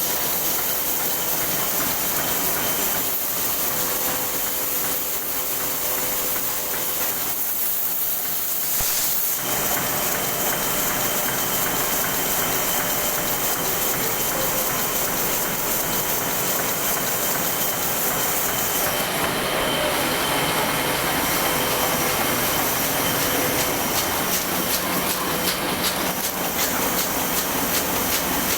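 Heidelberg Speedmaster SM 52 sheetfed offset printing press running, a steady fast mechanical clatter of sheets being fed and printed in four colours. The sound fills out and grows slightly louder about nine seconds in.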